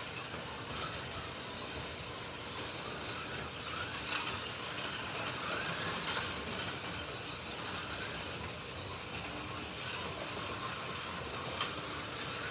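1:32 Slot.it slot cars lapping a track: a steady whir of small electric motors and wheels on the track, with the motor pitch rising and falling as the cars accelerate and brake through the corners, and an occasional sharp tick.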